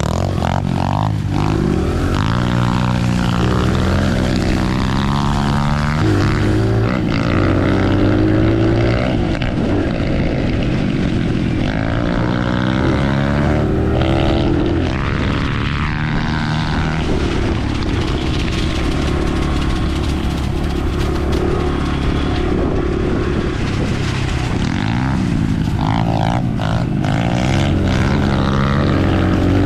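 Dirt bike engine running under way, its pitch climbing and dropping again and again as the throttle opens and closes.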